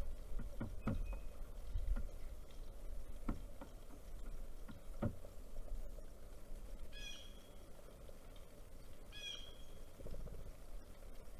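Outdoor bird-feeder sounds: a few irregular knocks and taps, and two short, harsh bird calls about seven and nine seconds in, over a low rumble.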